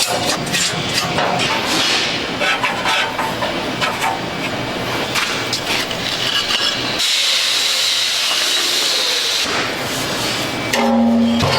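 Metalworking sounds: rapid clicking and clinking of metal, then a steady hiss lasting about two and a half seconds. Music comes in near the end.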